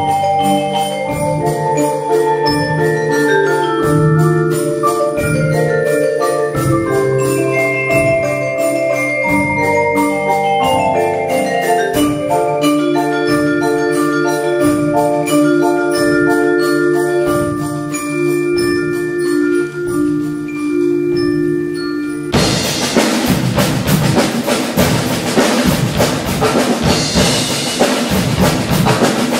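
Youth percussion ensemble playing pitched mallet percussion in a steady, repeating pattern of notes. About 22 seconds in the mallets break off suddenly and loud, dense drumming takes over.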